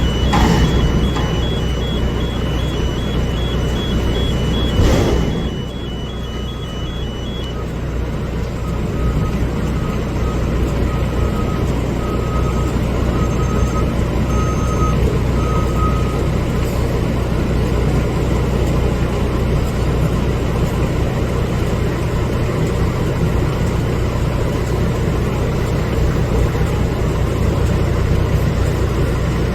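Garbage truck's diesel engine running steadily, with backup alarms beeping. A rapid high-pitched beeping stops a few seconds in, and a lower beep about once a second goes on to about halfway. Two short, loud bursts of noise come near the start and about five seconds in.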